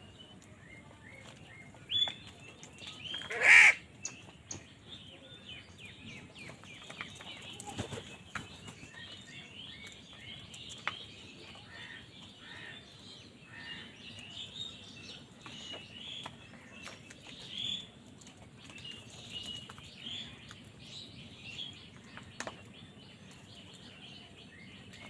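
Crows calling: one loud caw about three and a half seconds in, over many short bird chirps throughout.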